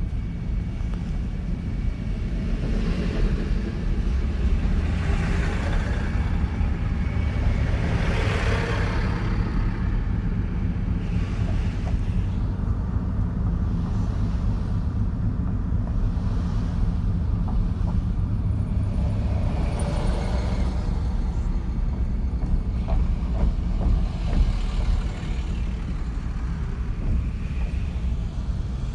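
Steady low rumble of a running vehicle engine with wind on the microphone, and several swells of passing road traffic that rise and fade.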